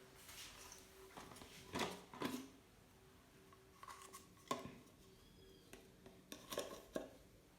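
Scattered light clicks and knocks of small hard items being handled, about half a dozen in all.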